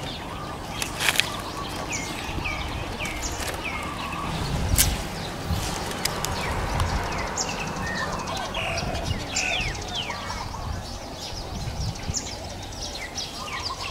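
Small birds calling with a run of short, downward-sliding chirps, thickest in the first few seconds, over a steady low rumble, with a few sharp clicks.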